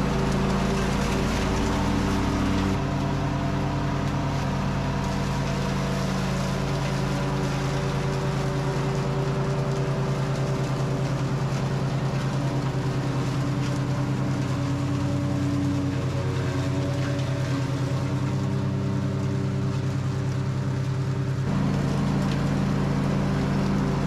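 Simplicity Regent lawn tractor's engine running steadily, its mower deck engaged and picking up leaves, twigs and long grass into a bagger. The sound changes abruptly about three seconds in and again near the end.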